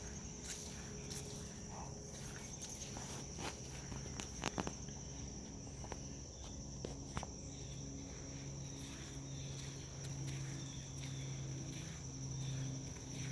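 Footsteps walking on a path with a little sand on it, irregular short scuffs, under a steady high-pitched cricket trill that never stops.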